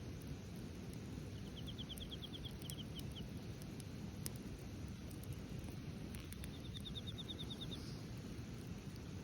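Wood fire crackling in a fire pit, with a few sharp pops over a steady low rush. A small bird sings a quick trill of about ten notes twice, once early and once later.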